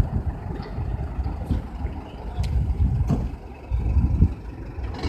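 Dumper truck's diesel engine running with an uneven low rumble that rises and falls, with a couple of sharp clicks or knocks about halfway through.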